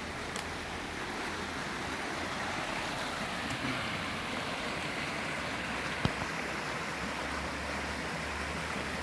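Steady rush of a waterfall's falling water, with a single sharp click about six seconds in.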